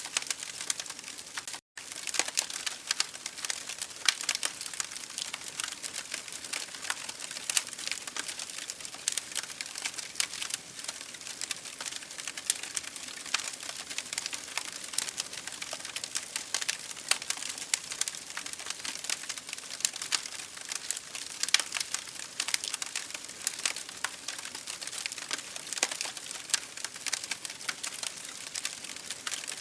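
Wood fire in an open fireplace crackling, with a dense, irregular stream of small pops and snaps over a soft hiss. The sound cuts out for a split second about two seconds in.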